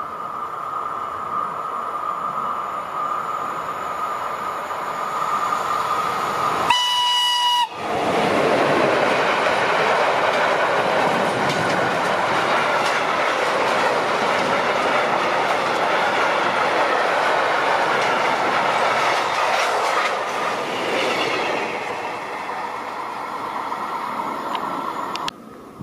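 Freight train of sliding-wall box wagons approaching with a steady high tone, its locomotive sounding one short single-note horn blast about seven seconds in. The wagons then run past close by with loud wheel noise and clatter, which cuts off suddenly near the end.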